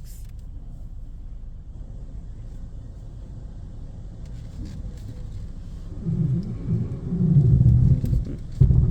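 A car idling with a steady low rumble; about six seconds in, louder uneven low rumbling comes in and runs for most of the last three seconds.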